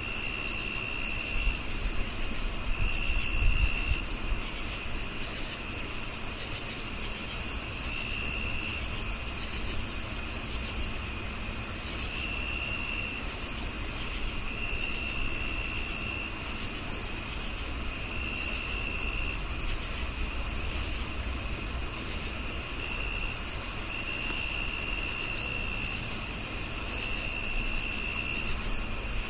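Several crickets calling at once: one holds a continuous high trill, another chirps steadily about twice a second, and lower trills of about a second each come and go at uneven intervals over a faint low rumble.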